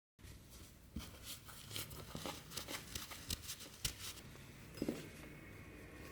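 Close-up workshop handwork: irregular light scraping and rustling with sharp small ticks, a few a second, after a brief dropout to silence at the very start.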